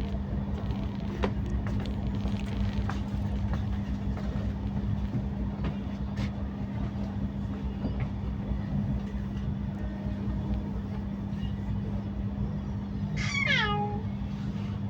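Steady low rumble and constant hum of a train, with scattered light clicks. About thirteen seconds in, a short high cry falls in pitch.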